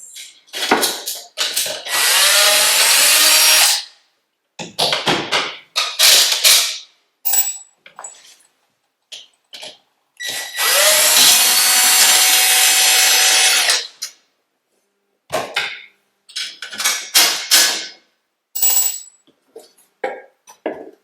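Power drill running in two bursts of a few seconds each, spinning up at the start of each, backing screws out of a microwave's wall-mounting bracket. Between the bursts come short knocks and clicks from handling the bracket and screws.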